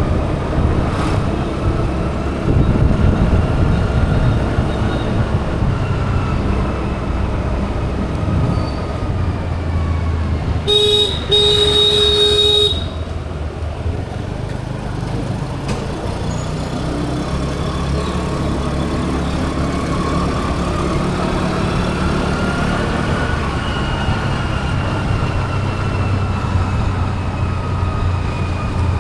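Road traffic running steadily, with engines passing and changing pitch. About eleven seconds in a vehicle horn sounds a short toot and then a longer blast; the horn is the loudest thing in the stretch.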